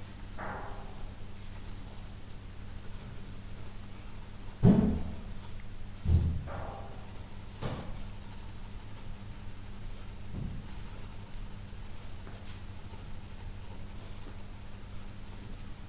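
Pencil scratching across sketch paper in quick fur-shading strokes, with two thumps about five and six seconds in.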